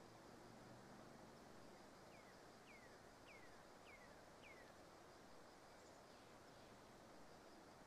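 Near-silent forest ambience in which a bird gives a series of five short whistles, each falling in pitch, evenly spaced about two seconds in. A faint steady high tone runs underneath.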